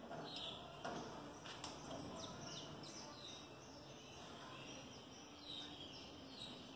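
Small birds chirping faintly, short falling chirps scattered throughout over a quiet background hum, with a couple of faint knocks in the first two seconds.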